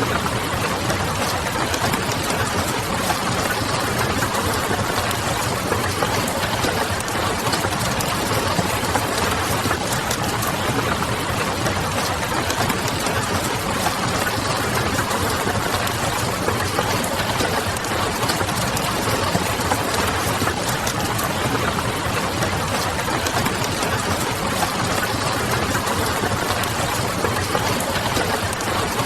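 Steady rain pattering mixed with the crackle of a wood fire, over a low, steady hum.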